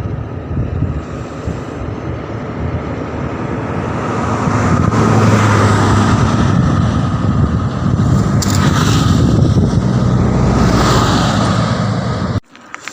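A motor vehicle going by on the road, mixed with wind buffeting the microphone. It grows louder over the first few seconds, stays loud, and cuts off suddenly near the end.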